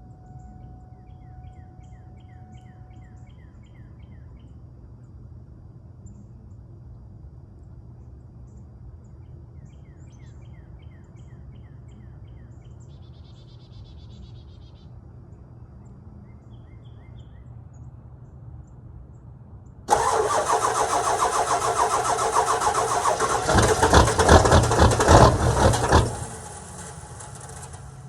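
1999 Ford 7.3 Power Stroke V8 turbo-diesel on a cold start. Birds chirp over a low hum for about twenty seconds. Then the engine cranks, fires with a louder, deeper burst a few seconds later, and shortly after settles to a quieter steady idle.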